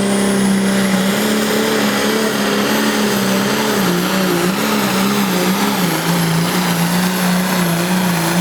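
Crazy Horse Ford pulling tractor's engine running hard under the load of the pulling sled, a steady high-revving note with a high whine over it. The engine note wavers and slowly sags lower through the pull as the load builds.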